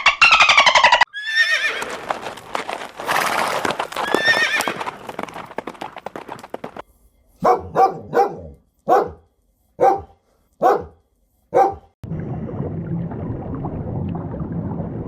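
Horse whinnying in one long call that falls in pitch. It is followed by six short, sharp sounds about a second apart, and then a steady low noise near the end.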